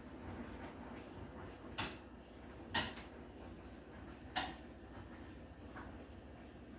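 Three sharp clicks or knocks, about a second apart and then a longer gap, over a low steady hum.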